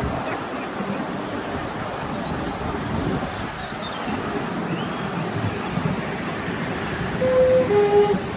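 Miniature railway train running, a steady rumbling noise with wind on the microphone. Near the end a horn sounds two short notes, a higher one followed by a lower one.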